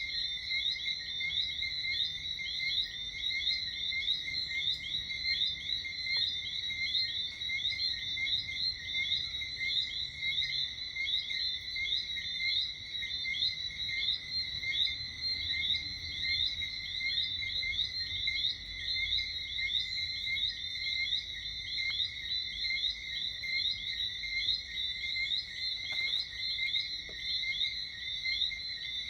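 Dense evening chorus of frogs: many short, high whistling chirps overlapping without pause, over a fainter steady high trill.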